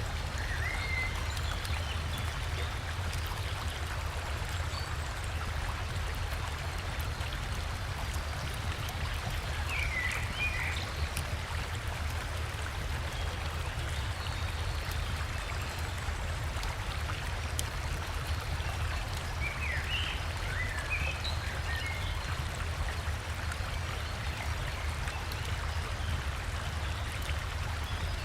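Steady rush of a flowing river with a low rumble under it. Short bird chirps come through near the start, about a third of the way in, and again about two-thirds of the way in.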